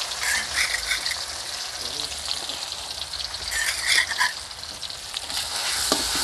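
Ground spice paste sizzling in hot oil in a wok as it is stirred, with a steady frying hiss and short scraping sounds about half a second in and again around four seconds in.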